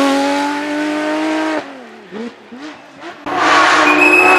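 Porsche 911 GT3 rally car's flat-six engine held at high revs, its pitch creeping up, then cutting off and falling away sharply as the car goes past. After a quieter stretch of about a second and a half, loud engine noise returns, with a short high squeal near the end.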